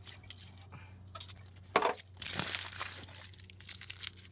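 Hand tools working on a car's motor mount bolt: scattered metallic clicks and handling noises, a sharp knock a little under two seconds in, then about a second of scraping and rustling, over a steady low hum.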